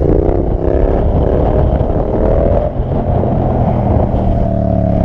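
Sport bike engine running under throttle, its pitch rising and falling as the revs change, with heavy wind noise on the helmet microphone.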